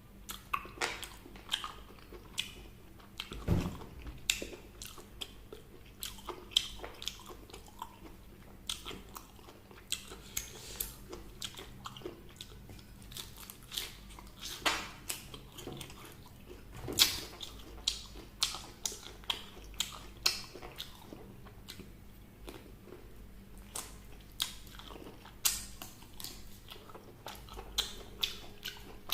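Close-miked eating: a person biting and chewing crunchy fried chicken and vegetables, with many irregular sharp crunches and wet mouth sounds.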